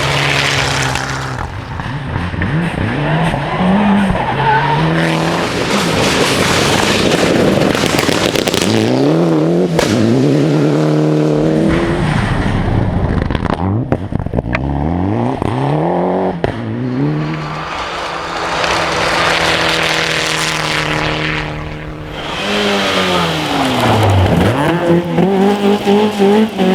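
Rally car engine revving hard through the gears on a stage, its pitch climbing and falling again and again, with tyre noise from the stage surface. Near the end the revs drop low, then climb again.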